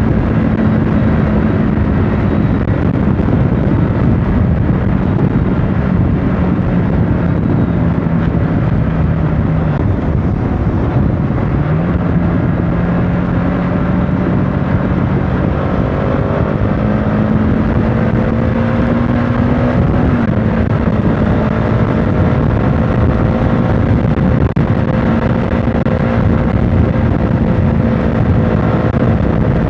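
CFMOTO motorcycle engine running at road speed under heavy wind and road noise. Its note drops about ten seconds in, picks up again lower a moment later, then climbs from around seventeen seconds.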